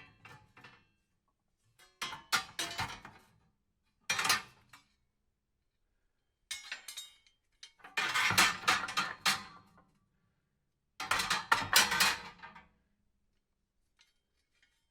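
Hand snips cutting, in about five short bursts of metallic clicks with pauses between.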